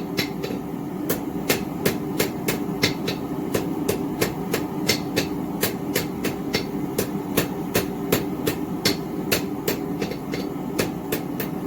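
Hand hammer forging hot steel on an anvil: a two-pound cross-peen striking in a steady run of about two to three blows a second, with short breaks, over a steady hum.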